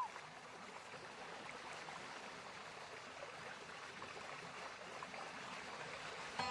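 Mountain stream water flowing steadily, an even rushing wash with no music over it.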